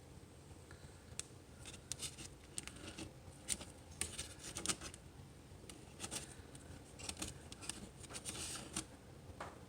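Irregular light clicks, scrapes and rustles of food, foil and utensils being handled while a meal is plated.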